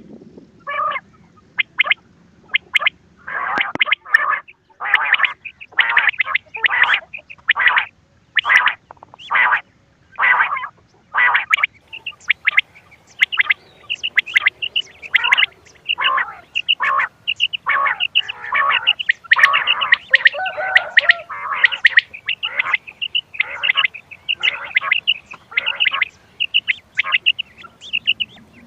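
Quail calling in short, repeated notes, a recording played as a lure for quail hunting. The calls are spaced out at first and then come thick and overlapping from about halfway through, as though several birds were calling at once.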